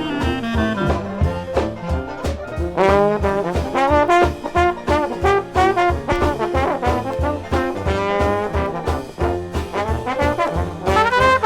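Dixieland jazz band playing an instrumental chorus, brass in front over a steady beat, with a long downward slide in the opening second or so.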